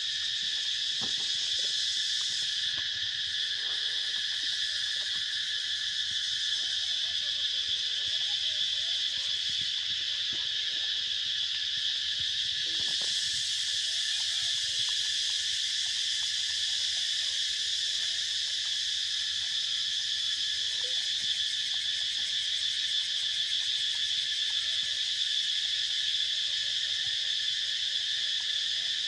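Steady chorus of insects, a continuous shrill drone in several high pitches, with a higher hiss joining about halfway through.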